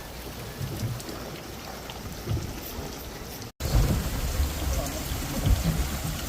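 Wind buffeting the microphone in low, irregular rumbles over a steady hiss, as heard out on a boat deck. About three and a half seconds in the sound cuts out for an instant, then comes back louder.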